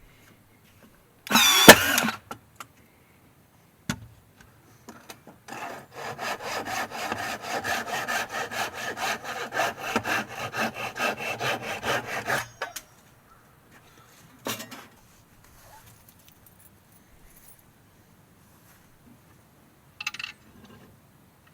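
Hand saw cutting wood in quick, even strokes, about four a second, for some seven seconds. Before that, a single loud, short scraping clatter about a second and a half in.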